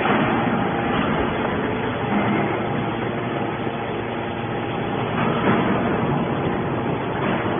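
Hydraulic aluminum can baler running: steady mechanical machine noise with a few brief louder surges.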